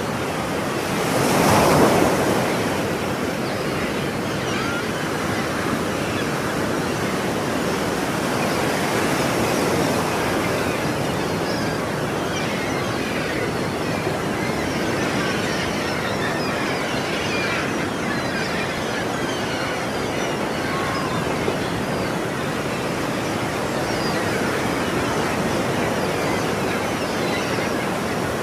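Ocean surf washing steadily onto a shore, with one louder wave breaking about a second and a half in and a smaller swell near the middle.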